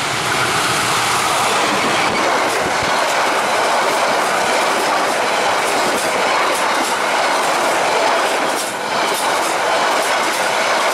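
Diesel-electric locomotive and its express passenger carriages passing close at high speed: a loud, continuous rush of wheels and air. From about halfway through, the wheels click sharply over the rail joints in quick succession.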